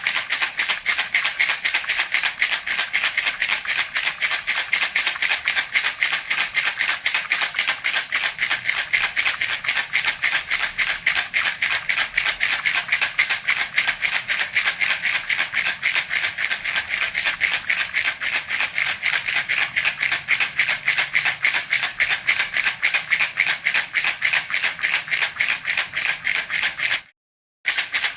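A baby's rattle (jhunjhuna) shaken continuously in a fast, even rhythm, with a brief break of about half a second near the end.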